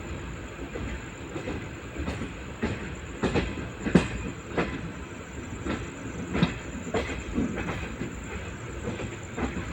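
Wheels of an LHB passenger coach running over the track: a steady rumble with a run of irregular clacks and knocks as the wheels cross joints in the rails, loudest in the middle of the stretch.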